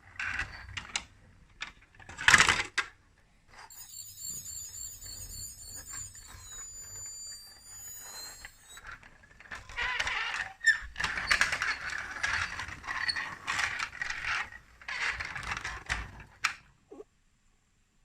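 Plastic toy parts clicking and rattling as they are handled and snapped together, with a sharp clatter about two seconds in and dense rattling in the second half. For several seconds in between, a high warbling electronic tone sounds.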